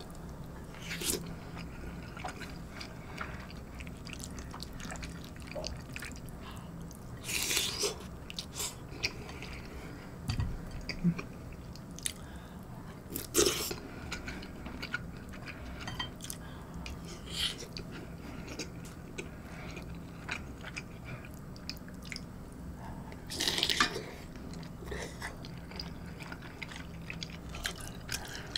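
A person chewing a mouthful of rice soaked in kimchi-stew broth with pork cutlet, close to the microphone, with many small mouth clicks. Three louder short noisy bursts stand out, spread through the stretch.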